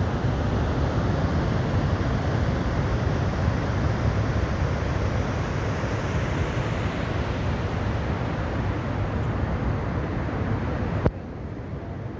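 Steady rushing noise with a strong low rumble, typical of wind on the microphone or falling water outdoors. A sharp click about eleven seconds in, after which the noise carries on noticeably quieter.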